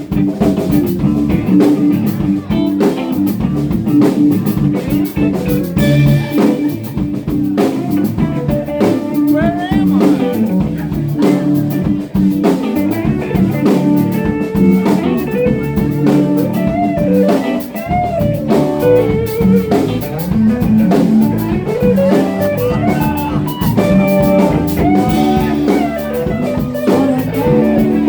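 Live band playing an instrumental blues-rock stretch: a lead guitar solos with bent, sliding notes over bass and a drum kit.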